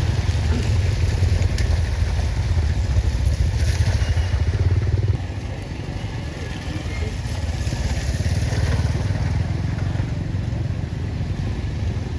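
A motor vehicle engine running with a loud, low rumble, which drops suddenly about five seconds in and then carries on steadily.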